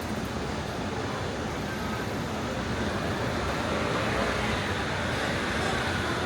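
City road traffic: a steady wash of passing vehicles. It swells as a vehicle passes close from about halfway in and stays loud near the end.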